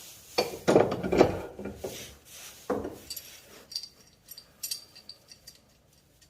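Hand tools and metal fittings being handled: loud clunks and scraping early on, a sharp knock near three seconds in, then a run of light metallic clinks and ticks that fade out.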